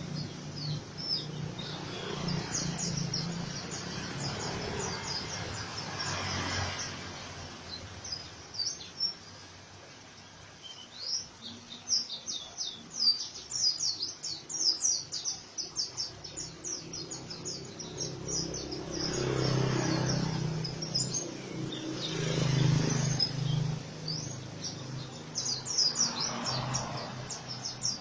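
Pleci (white-eye, Zosterops) singing in the 'ngriwik' style: runs of very fast, high, sharply falling chirps, densest in the middle stretch and again near the end. A low background rumble swells a few times underneath.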